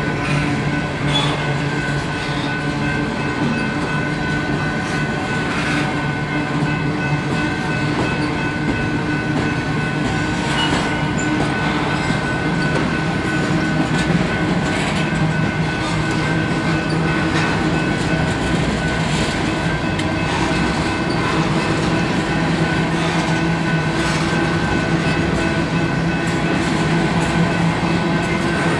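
Freight train of covered hopper cars rolling past close by: a steady rumble and hum of steel wheels on rail, with a click now and then over the rail joints.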